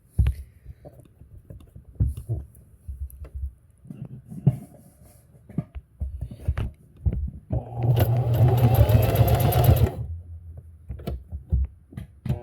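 Singer sewing machine stitching a test seam after rethreading: about 7.5 seconds in, it runs for roughly two and a half seconds, a steady motor hum under rapid needle clatter. Before that there are scattered light clicks and knocks of handling, and a few more follow after it stops.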